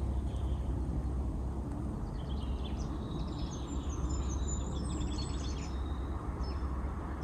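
Forest birdsong: small birds singing in quick runs of high notes, busiest from about two to five seconds in, over a steady low rumble.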